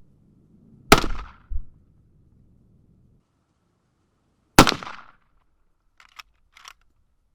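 Two rifle shots from a Winchester Model 94 lever-action in .30-30, about four seconds apart, each a sharp crack with a short echo. Two short clicks follow near the end.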